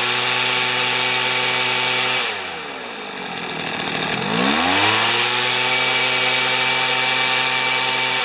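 Weed Eater leaf blower's small two-stroke engine revved up to high speed and held steady for about two seconds. It drops back toward idle, then is revved up again about four seconds in and held until it falls off near the end. The engine is being run up to test throttle response during a carburetor low-speed mixture adjustment.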